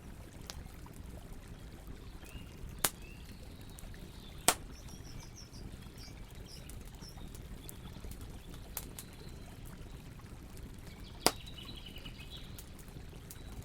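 Campfire burning with a steady low rush and sharp wood pops, three of them loud, about 3, 4.5 and 11 seconds in. Faint bird chirps in the background.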